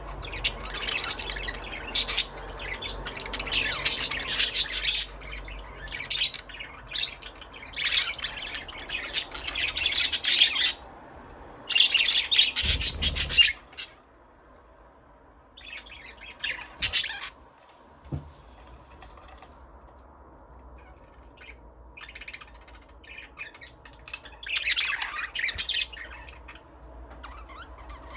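Budgerigars chirping and squawking in bursts: busy chattering for the first ten seconds or so, a loud burst about twelve seconds in, then sparse quieter chirps until another loud burst a few seconds before the end.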